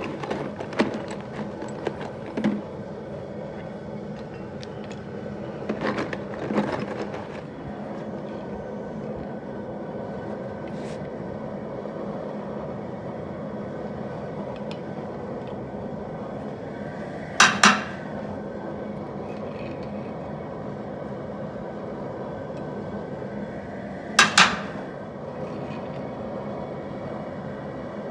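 Steady roar of a turkey-cooker burner heating a pot of molten lead, with a metal ladle clinking against the pot while impurities are skimmed off. There are scattered light clinks early on and two sharp double clinks in the second half.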